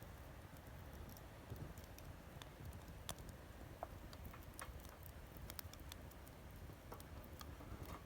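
Campfire crackling faintly, burning wood giving off irregular small snaps and pops over a low rumble.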